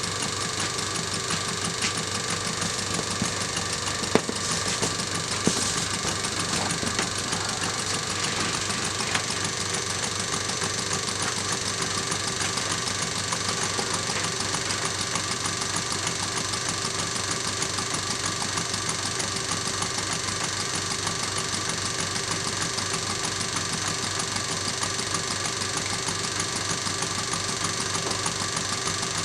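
Scale-model Lady Stephanie beam engine running steadily, its exhaust beat the main noise, with a couple of sharp clicks about four and five seconds in.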